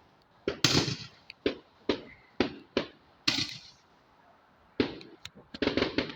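Fireworks going off: a string of sharp bangs, about a dozen, coming at uneven intervals, with a quick cluster near the end.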